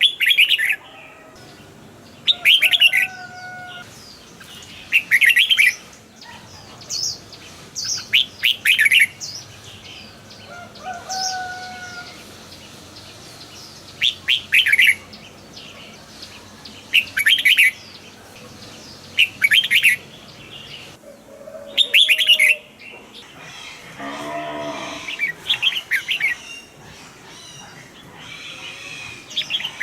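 Red-whiskered bulbul singing: short, bright phrases of quick notes repeated every two or three seconds, with a few short whistled notes in between. About two-thirds of the way through, a lower, fuller call comes from another bird.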